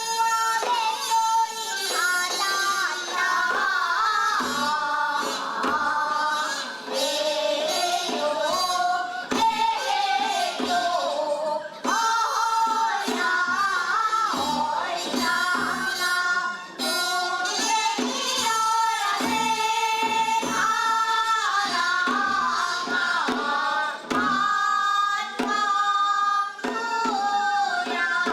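Women singing a Korean Seodo sori folk song (a taryeong), with low drum strokes beating under the melody.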